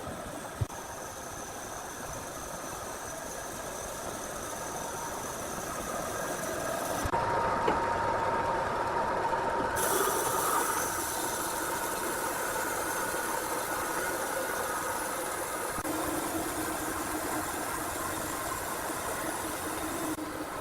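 Machinery running steadily, a mechanical hum with a few held whining tones. The sound changes abruptly about seven and again about ten seconds in.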